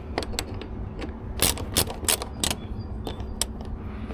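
Hand tools and metal parts being handled: a run of sharp metallic clicks and knocks at an uneven pace, the loudest in the middle.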